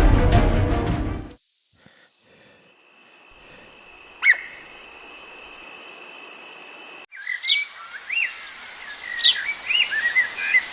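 Music cuts off a little over a second in, leaving a steady high insect trill with one quick bird chirp; about seven seconds in this switches to birds chirping and calling again and again.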